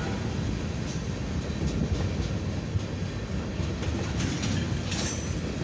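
Freight cars of a mixed freight train rolling past: a steady low rumble of steel wheels on rail with occasional faint clicks.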